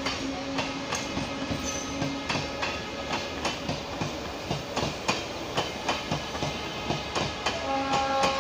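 Indian Railways passenger coaches running past on the track, their wheels clicking and clacking steadily over the rail joints. A steady high tone joins in near the end.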